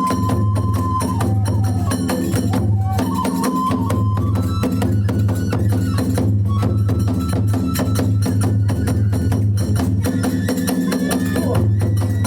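Kagura hayashi ensemble playing: rapid drumming and clashing small hand cymbals under a bamboo flute melody that wavers and slides between notes and rises higher near the end.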